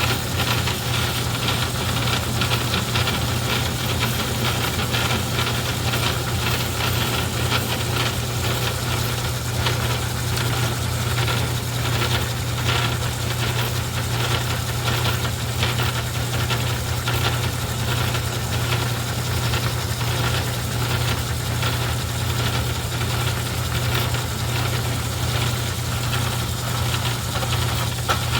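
Craftsman 109 metal lathe running steadily, its motor humming under a fast, uneven rattle from the drive and the turning work.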